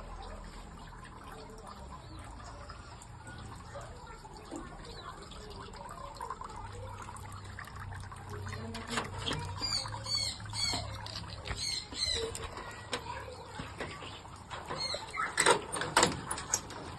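White-rumped shama chirping, with a short run of high, quick chirps about halfway through, over rustling and handling noises. A few sharp knocks and clatter come near the end and are the loudest sounds.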